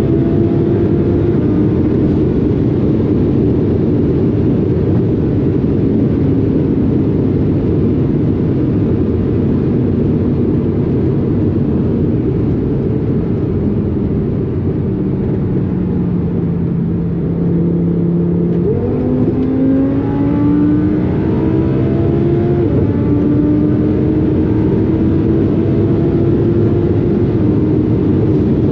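Twin-turbocharged Audi R8 V10 running at high speed under heavy wind and road noise. Its revs sag slowly and hold low, then about two-thirds of the way in they jump up sharply, a kickdown, and it pulls hard. A quick drop in pitch a few seconds later is an upshift, and it keeps accelerating.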